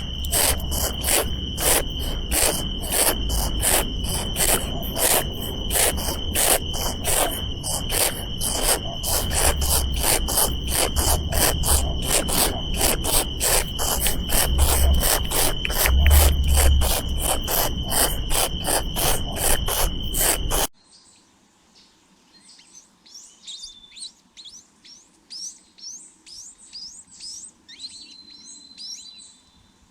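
A loud, shrill chirping that pulses evenly about three times a second over a steady high tone. It cuts off suddenly about two-thirds of the way through, leaving only faint, quick high bird chirps.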